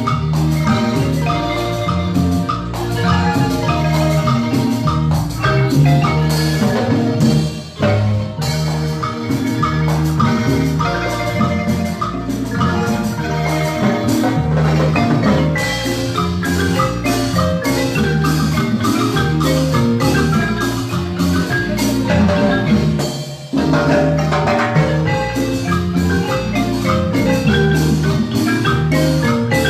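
A Guatemalan marimba ensemble playing a lively piece in steady rhythm, with a full low bass line under quick melody notes. Brief breaks come about 8 and 23 seconds in.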